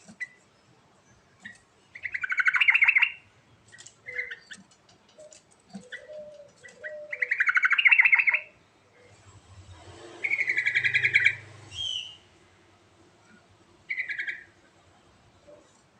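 Yellow-vented bulbul (trucuk) singing in bursts of rapid, bubbly chattering phrases a few seconds apart, three of them loud and several shorter ones between.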